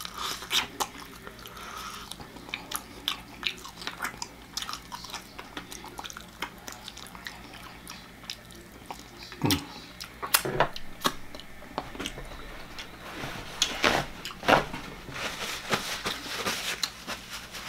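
Close-up chewing and biting on fried chicken drumstick meat, with many short, wet mouth clicks and smacks. A paper napkin rustles near the end.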